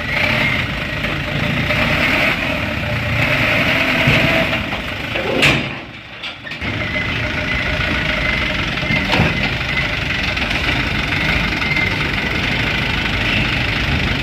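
Dump truck engine idling steadily; the sound drops away for about a second around six seconds in, then resumes.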